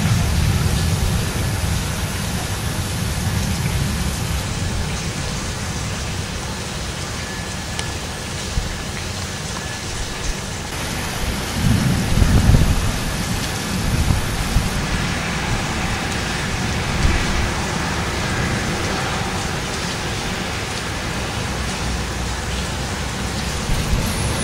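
Heavy rain from a thunderstorm, falling steadily as an even hiss with a deep low rumble beneath it. The rumble swells briefly about halfway through.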